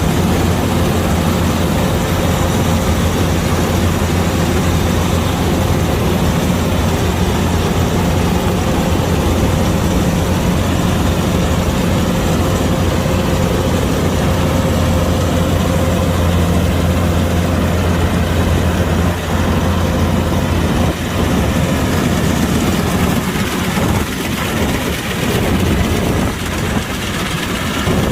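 Kubota DC-105X combine harvester's diesel engine running steadily with a heavy low hum, which turns uneven in the last several seconds.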